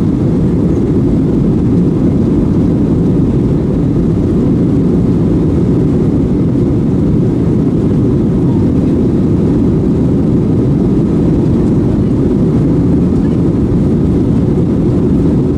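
Steady jet-engine and airflow noise heard from inside the cabin of a Boeing 737-900ER airliner in flight: a constant low rumble with no change in level.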